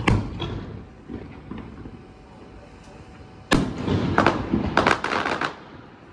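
Aerial fireworks: a sharp bang at the start, then about three and a half seconds in another loud bang followed by a quick run of sharp pops lasting about two seconds.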